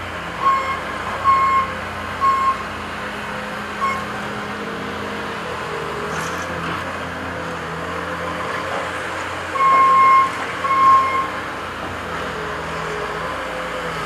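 Diesel engine of heavy construction equipment running steadily, with a backup alarm sounding in short runs as a machine reverses: four short beeps in the first four seconds, then two longer beeps about ten seconds in.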